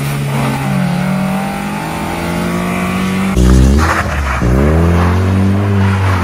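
Car engines revving at high rpm. First comes a steady high engine note. About three and a half seconds in it gives way to a louder, deeper engine that falls in pitch and then climbs again as an Opel hatchback is drifted on wet tarmac.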